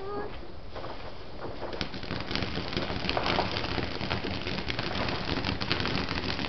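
Ground fountain firework (a "pot of gold") spraying sparks: a steady hiss full of fine crackles that builds up about a second and a half in and keeps going.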